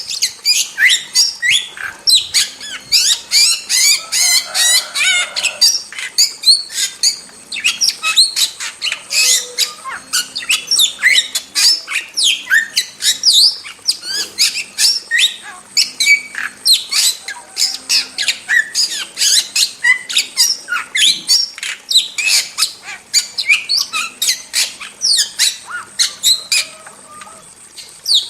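Starling (jalak) calling without pause: a dense run of short, sharp chirps and whistles that glide up and down in pitch, several a second, thinning briefly near the end.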